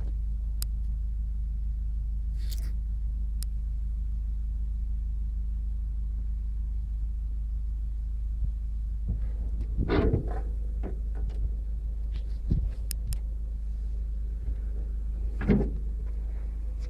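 A steady low rumble with a few scattered knocks and clicks, the louder ones about ten seconds in and again a few seconds before the end.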